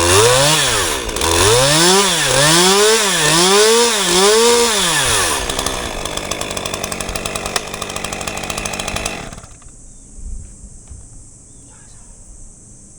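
Chainsaw engine revved up and down five times, then idling, then shut off about nine seconds in. Faint insect chirring remains after it stops.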